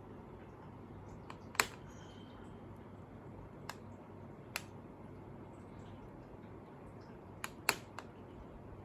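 A few separate sharp clicks over a faint steady background, the loudest about a second and a half in and a close pair near the end.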